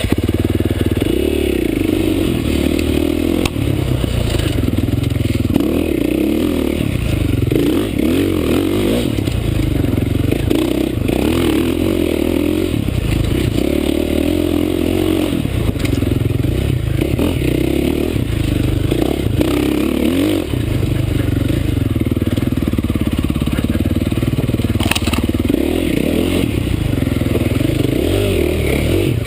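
Dirt bike engine heard from the rider's helmet camera, rising and falling in pitch every couple of seconds as the throttle opens and closes along the trail, with clattering from the bike over rough ground.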